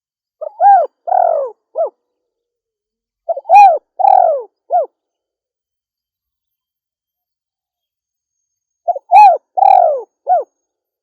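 Female spotted dove cooing: three phrases of three or four arching notes each, about a second and a half long, the third after a longer pause.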